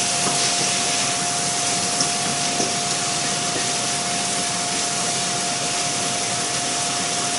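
Chopped onion, shallots and garlic frying in hot olive oil in a pan: a steady sizzle, with a steady whine underneath and two light clicks about two seconds in.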